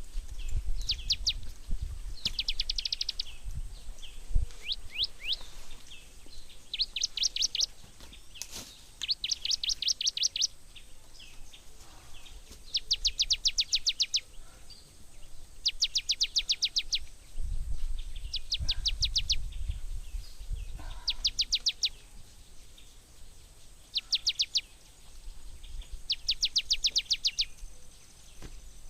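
A bird singing short rapid trills of high notes, one burst about every two to three seconds, with a low rumble coming and going underneath.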